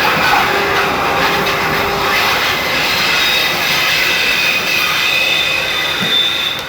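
Argo Wilis passenger train's coaches rolling past, a steady loud rush of wheels on rail with high, thin wheel squeal held over it; the sound drops away near the end.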